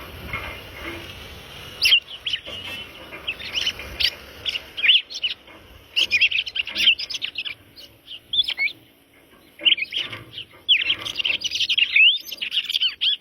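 A cardinal singing: bursts of quick, high chirping and warbling notes that rise and fall, starting about two seconds in, with short pauses between phrases.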